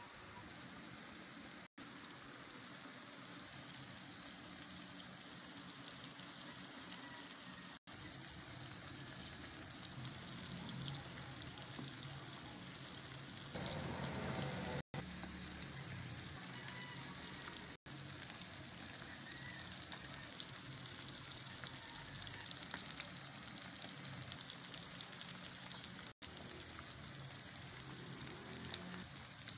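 Flour-coated anchovies frying in hot oil in a pan: a steady sizzle with fine crackling, louder for a moment about halfway through. The sound cuts out for an instant several times.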